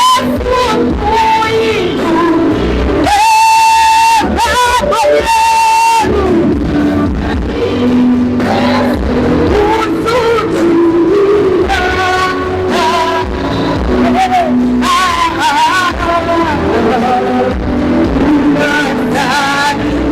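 Church worship music with singing and instruments, with long held high notes a few seconds in.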